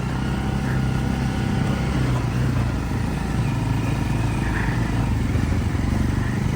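Bajaj Pulsar NS motorcycle engine running steadily while riding, with road and wind noise.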